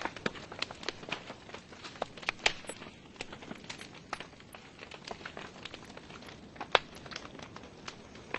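Wood logs burning in a fireplace, crackling with irregular sharp pops over a steady low hiss; one louder pop near the end.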